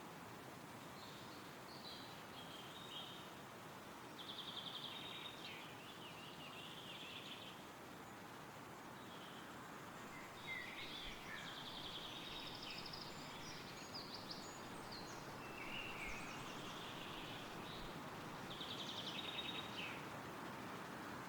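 Songbirds singing in repeated short phrases, some with fast trills, over a steady rustle of wind through trees.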